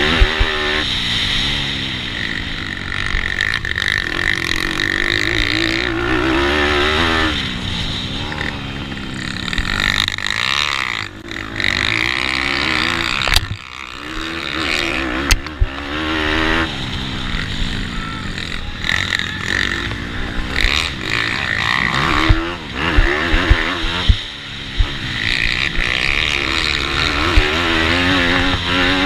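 Four-stroke single-cylinder pitbike engine, a GPcube Lite 160cc in a Bucci F15, racing hard. It revs up and falls back again and again through the lap, with a few sharp knocks.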